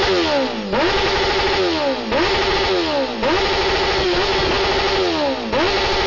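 Motorcycle engine with a loud exhaust revved hard again and again. Each rev climbs fast, holds at a steady high pitch for about a second, then falls away, roughly every second and a half.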